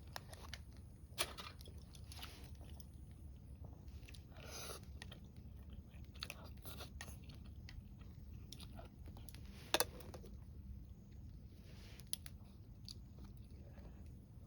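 Someone chewing food, with scattered small clicks and taps, the sharpest about ten seconds in.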